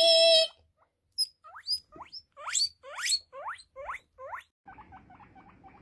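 Guinea pig wheeking: a held squeal at the start, then a run of about eight quick rising whistles, with a quieter fast patter of short pulses near the end.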